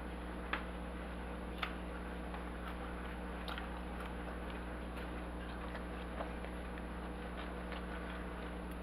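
Someone chewing a mouthful of chicken cheesesteak sandwich: faint, irregular mouth clicks about once a second over a steady low room hum.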